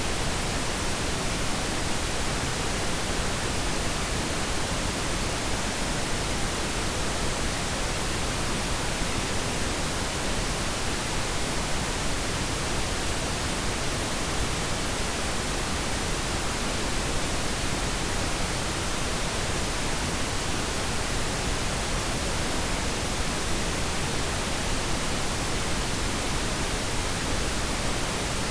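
Synthetic pink noise: a steady, even hiss spread across all pitches, unchanging throughout.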